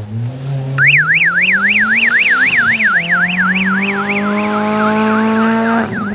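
A car engine accelerating, its pitch climbing and dropping once about halfway as it shifts up. Over it, from about a second in, an electronic siren yelps rapidly up and down, about three sweeps a second, slowing near the end.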